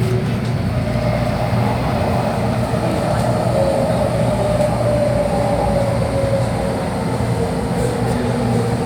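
Inside an MTR Tung Chung line CAF electric train running between stations: a steady rumble of wheels and running gear, with a constant low hum and a mid-pitched motor tone that drifts slightly in pitch.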